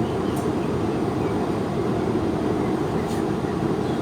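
Knife-forging forge running: a steady, even rush of burner or blower noise with no breaks.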